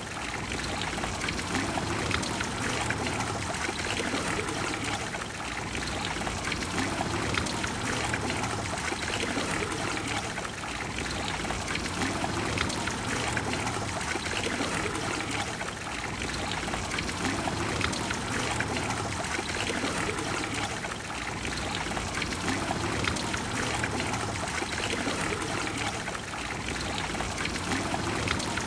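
Trevi Fountain's water cascading and flowing steadily into its basin, an even splashing rush without break.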